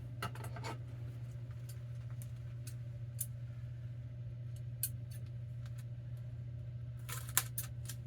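Scattered light clicks and rustles of hands working repair tape onto a book's binding, with a brief cluster of clicks about seven seconds in, over a steady low hum.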